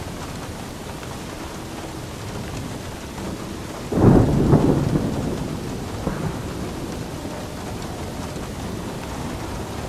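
Steady rain with a clap of thunder about four seconds in, a sudden loud low rumble that cracks twice and rolls away over the next few seconds.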